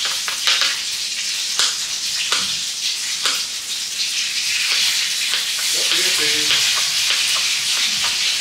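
Cutlets sizzling and crackling as they fry in a frying pan, a steady hiss with frequent small pops.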